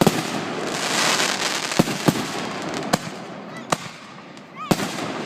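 Fireworks going off: a sharp bang, then a dense crackle for about two seconds, followed by several more sharp reports roughly a second apart.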